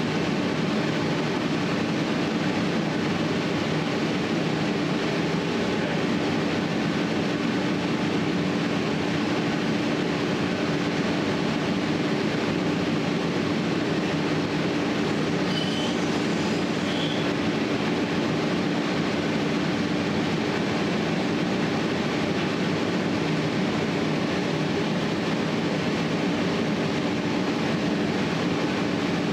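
A steady, even drone with a constant low hum, unchanging in level; about halfway, two faint brief high chirps.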